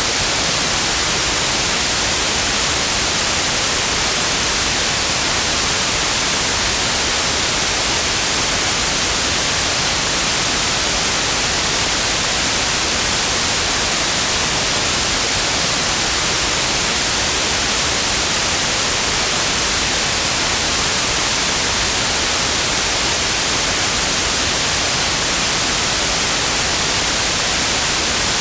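Synthetic white noise: a steady, even hiss with no changes, strongest in the high frequencies.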